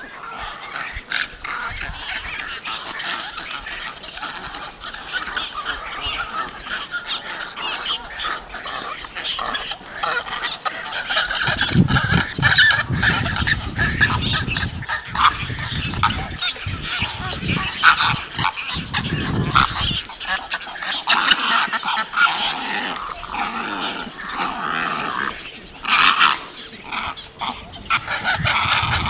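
A crowded egret nesting colony: many adults and chicks calling at once in a dense, continuous chorus of harsh croaks and squawks. A low rumble joins in from about twelve to twenty seconds in.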